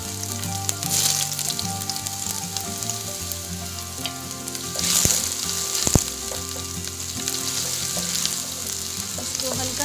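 Chopped garlic and ginger sizzling in hot refined oil in a frying pan, with a steady hiss as they are stirred with a wooden spatula. The spatula knocks sharply against the pan once, about six seconds in.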